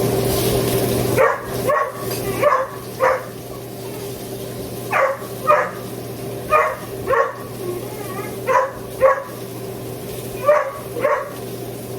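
A dog barking in pairs, about six double barks in a steady rhythm.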